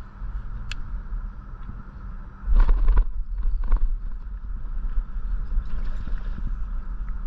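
Wind rumbling on the microphone, with a stronger gust about two and a half seconds in, over a faint steady hum and a few light clicks.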